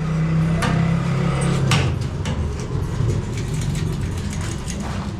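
A motor running steadily with a low, even hum, with a few sharp knocks in the first two seconds.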